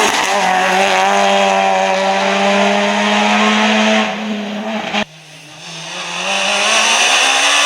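Rally car engine held at high revs on full throttle, its pitch climbing slowly, then easing off about four seconds in. After an abrupt cut about five seconds in, another rally car is heard approaching, growing steadily louder.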